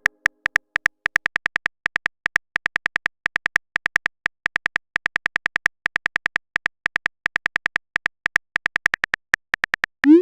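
Phone-keyboard typing sound effect from a texting-story app: a rapid run of short, sharp key clicks in uneven bursts, several a second. About ten seconds in comes a quick rising pop, the message-sent sound.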